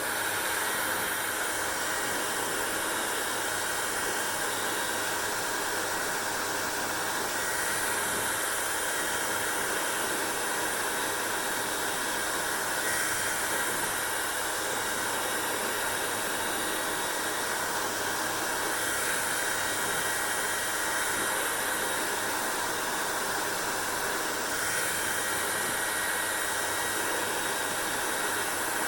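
Hair dryer running steadily: an even blowing hiss with a faint low hum underneath, the upper hiss swelling slightly a few times.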